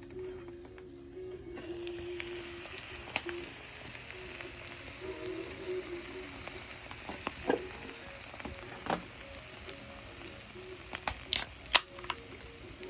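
Food sizzling in a frying pan, the hiss starting suddenly about a second and a half in, with a few sharp clicks and knocks scattered through it.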